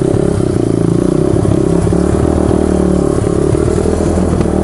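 1995 Honda XR200R's single-cylinder four-stroke engine running at low, fairly steady revs while the bike is ridden slowly over logs, with some clattering knocks.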